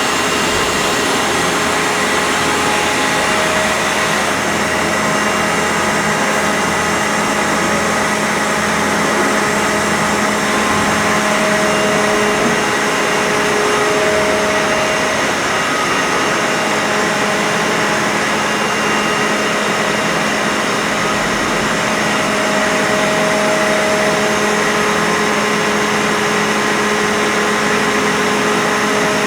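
CNC machine running: a loud, steady noise with whining tones that shift in pitch and come and go every few seconds as the axes move.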